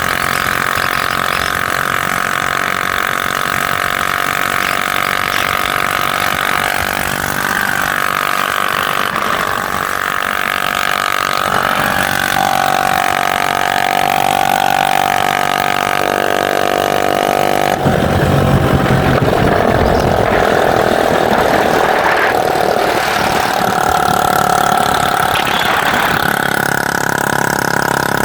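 Motorcycle engine running during a ride, a steady drone whose pitch shifts suddenly a few times as the throttle or gear changes.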